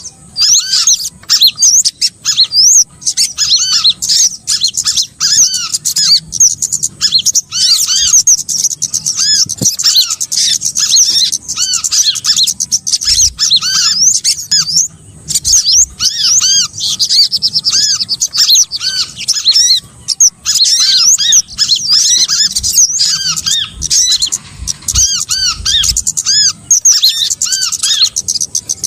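Recorded lure call of small songbirds: a dense, continuous chatter of many high, quick chirps and twitters from several birds at once, played to attract small birds for trapping. The calling breaks off briefly about halfway through, then carries on.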